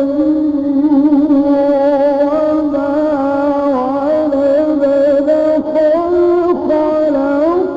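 A male Quran reciter in the Egyptian mujawwad style, holding one long melismatic vowel with a wavering, ornamented pitch that climbs near the end.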